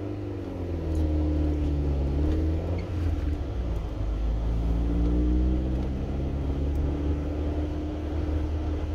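Car driving, with a steady low rumble and an engine note that rises and falls several times as it speeds up and slows.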